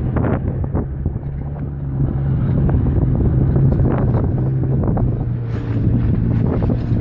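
Suzuki Samurai's engine running steadily while driving a rough forest track, with wind buffeting the microphone and occasional knocks from bumps.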